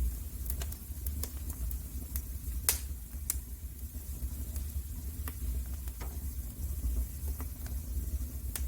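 Wood fire in a fireplace crackling: irregular sharp pops and snaps over a low steady rumble, with one louder pop a little under three seconds in.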